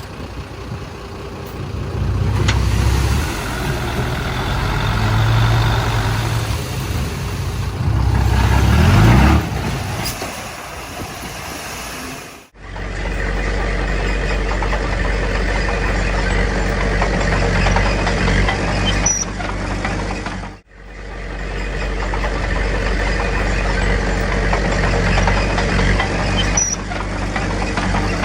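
Heavy diesel earthmoving machinery, a bulldozer and dump trucks, running steadily, with the revs rising briefly about nine seconds in. The sound cuts out abruptly twice, near twelve and twenty-one seconds.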